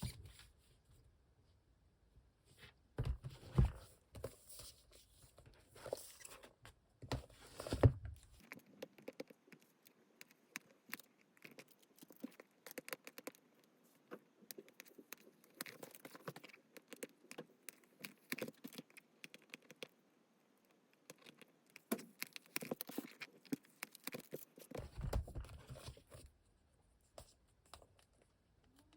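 Manga comic books and their packaging being handled and unwrapped: close crackling, tearing and scraping, with a few soft thumps near the start and again near the end as books are set down.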